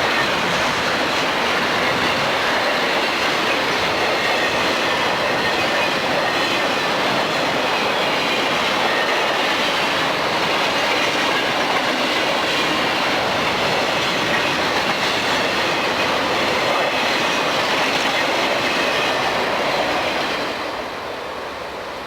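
Freight train cars rolling past close by, steel wheels clattering over the rail joints with a thin high squeal from the wheels. The sound falls away about twenty seconds in.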